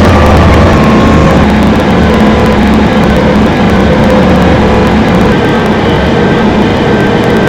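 Train running with a loud, steady low rumble and a faint humming whine over it.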